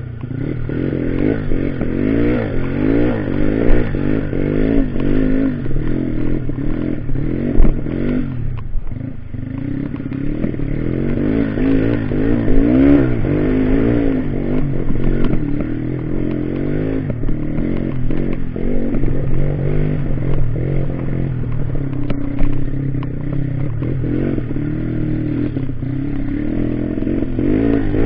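Off-road motorcycle engine revving up and down over and over, easing off briefly about eight seconds in, with some clattering.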